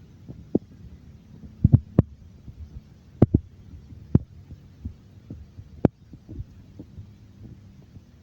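Irregular sharp knocks and soft thuds, about a dozen at uneven spacing, over a low rumble.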